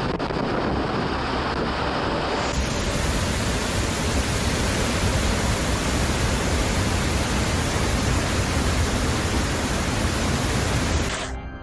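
Loud, even rushing noise of a storm. About two and a half seconds in it turns brighter and hissier, and it cuts off suddenly just before the end.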